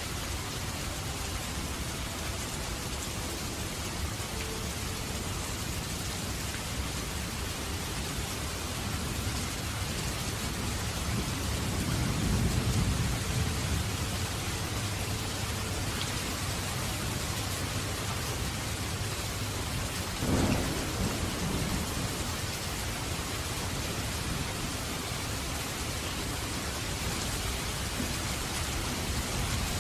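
Steady rain-like hiss, with a low rumble swelling about twelve seconds in and a short low thump about twenty seconds in.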